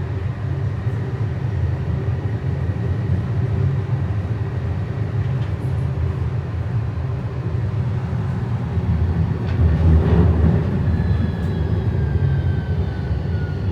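Train running with a steady low rumble and a constant hum, swelling louder about ten seconds in. Near the end, high thin whines slowly fall in pitch.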